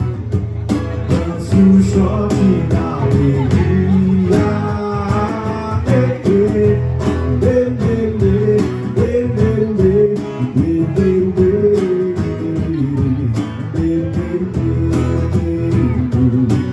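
A song played on guitar, in a passage without sung words: a wavering melody line over a steady chordal and bass accompaniment.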